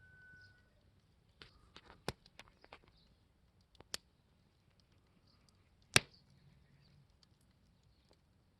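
Campfire crackling: scattered sharp pops of burning wood over a faint background. There is a cluster of pops in the second and third seconds, a single pop about four seconds in, and the loudest pop about six seconds in.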